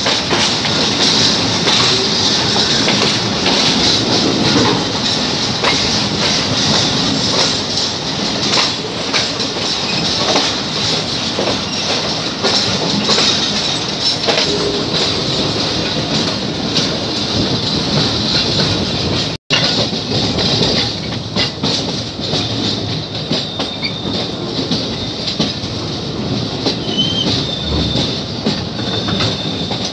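Passenger coaches rolling along the track, heard from an open coach doorway: a steady wheel-on-rail rumble and hiss with clickety-clack over the rail joints. The sound cuts out for an instant about two-thirds of the way in.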